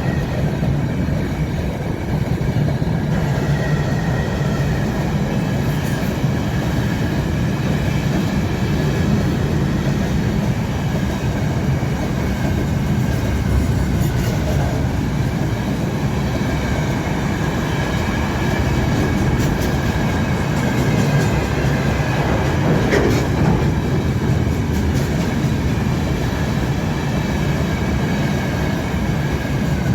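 Freight train rolling steadily past, its wheels rumbling and clattering over the rails, with a thin wavering squeal from wheels on the curve.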